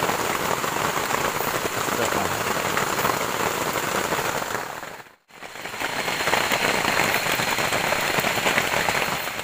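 Steady rain falling. It fades out briefly about halfway through, then comes back at the same level.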